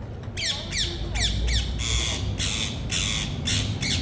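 Parrot calling with a run of about ten loud, shrill squawks: a few quick notes that fall in pitch, then longer, harsher screeches.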